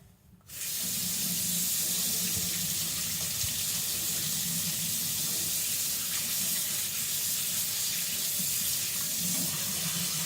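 Water running steadily from a tap, switched on about half a second in, rinsing flattening grit off a whetstone.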